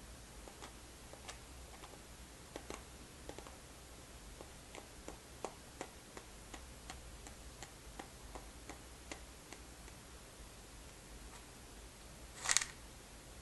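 Irregular light clicks and taps, a few a second, from small hard objects being handled close to the microphone. One louder, brief rattling scrape comes near the end.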